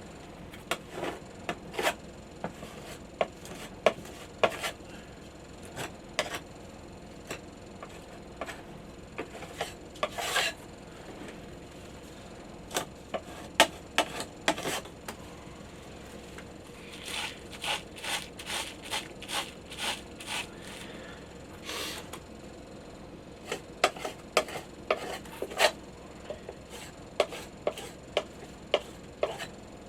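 Putty knife scraping and rubbing as filler is spread into old screw holes in wood, in short, irregular strokes that come in clusters.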